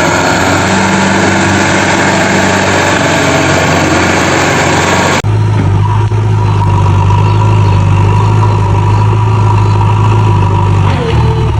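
Heavy vehicle engine running steadily at idle, with an abrupt cut about five seconds in to another stretch of engine running with a stronger low hum.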